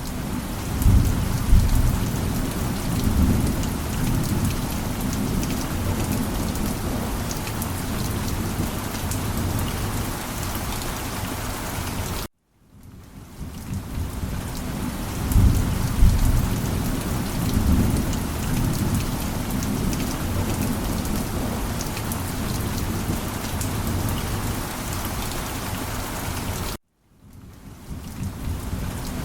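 Steady heavy rain with deep rolling thunder rumbles about a second in and again midway. The sound cuts out abruptly twice, about 12 and 27 seconds in, and fades back in each time, as a looped track does.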